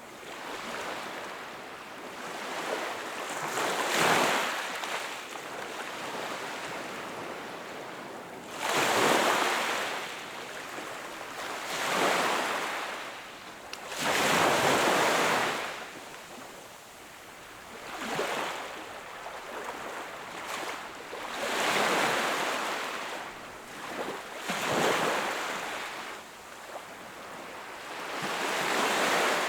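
Sea waves breaking and washing onto the shore, each wash swelling up and fading away, about eight times at intervals of three to five seconds.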